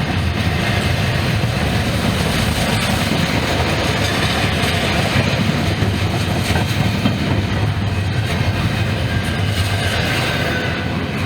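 Freight train cars rolling past: a steady rumble with the clatter of wheels over the rail joints.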